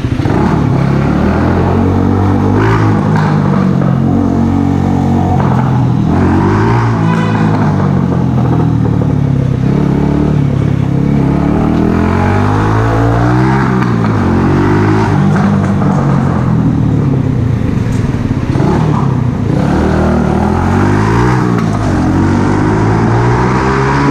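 Mash Cafè Racer 125cc single-cylinder four-stroke engine through an aftermarket Megaton exhaust, its pitch climbing and dropping over and over as the engine is revved up and let back down every few seconds.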